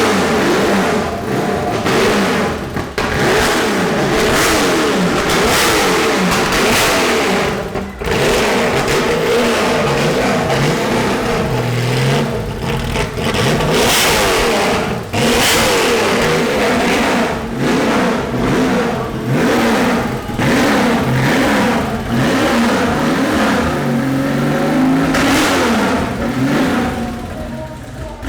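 Supercar engine being revved again and again, its pitch sweeping up and falling back with each blip of the throttle.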